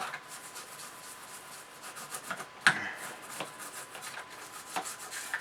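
Scrubbing grime off screws on an aluminium chassis in hot water: repeated scratchy rubbing strokes, with one sharp knock about two and a half seconds in.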